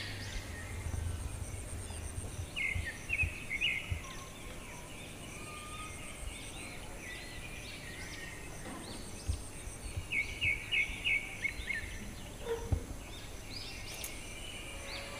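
Outdoor birds chirping and calling, with a quick run of repeated notes about two and a half seconds in and another around ten seconds.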